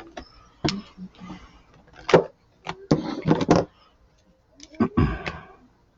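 Markers and paper being handled while colouring: a string of short knocks, clicks and scratchy strokes, the loudest cluster about three seconds in.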